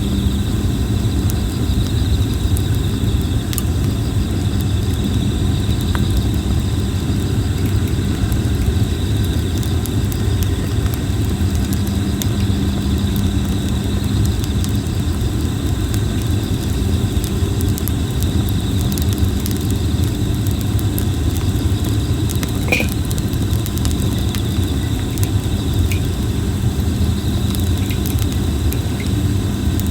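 Red plum wood burning in a campfire, crackling and popping in scattered sharp snaps over a steady low rumble. A faint steady insect trill carries on high above it.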